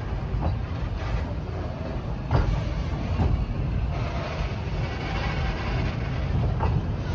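Puffing Billy narrow-gauge heritage steam train rolling slowly along a station platform, heard from an open-sided carriage: a steady low rumble with a few sharp knocks, the loudest about two and a half seconds in.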